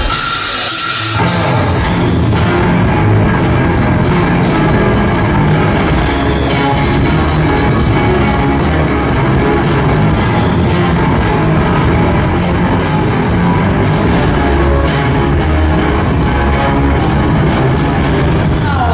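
A rock band playing live with electric guitar and drum kit; the full band comes in about a second in and plays on loud and steady.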